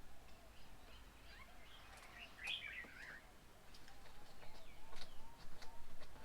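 Mixed small birds chirping and calling, with a brief burst of louder chatter about two and a half seconds in and a run of short sharp clicks and chirps in the second half.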